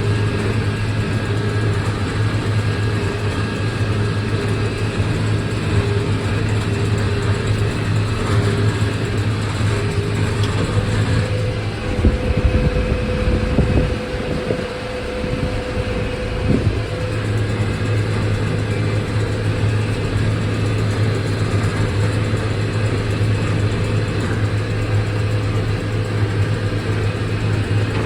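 McCormick MTX 150 tractor's diesel engine running steadily in a deep, even drone, with a short change in its sound a little before halfway through.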